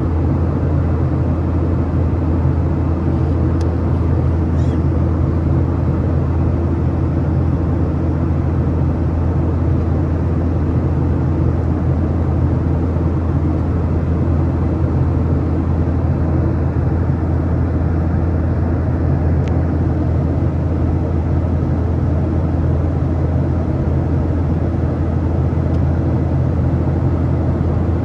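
Steady cabin drone of a Boeing 737-800 in flight, heard from a seat near the wing: the low hum of its CFM56-7B turbofan engines under the rush of airflow, unchanging in level.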